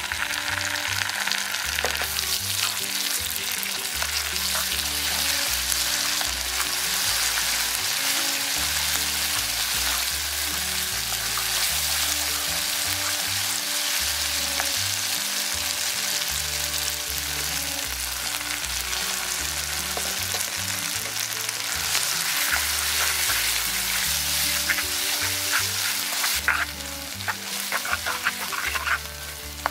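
Chili paste and minced garlic sizzling in hot oil in a nonstick wok, stirred with a wooden spatula. The sizzle eases near the end, leaving the spatula's scraping strokes against the pan.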